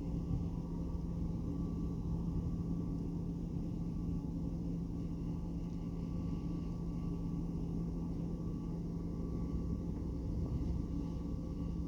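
Steady low drone of a ferry's diesel engines as it comes into port, an even rumble with a constant low hum over it.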